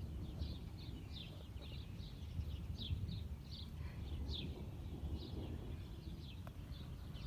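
A bird chirping repeatedly, short downward-slurred chirps two or three a second, over a steady low outdoor rumble.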